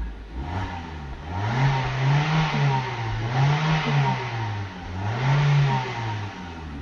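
A Vauxhall small car's petrol engine and exhaust, with the standard rear silencer still fitted, revved up and let fall three times. The tone is dull.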